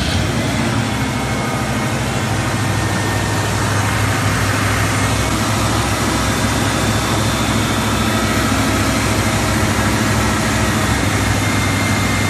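1991 Ford F-150's 302 (5.0-litre) small-block V8 idling steadily, just after being started.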